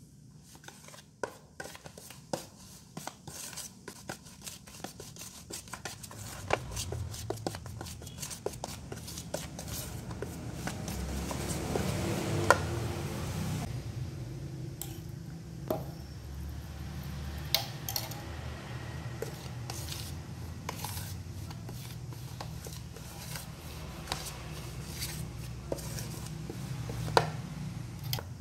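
Metal spoon stirring flour dough in a bowl: repeated clinks and taps of the spoon against the bowl with the gritty scrape of the flour, busiest around the middle.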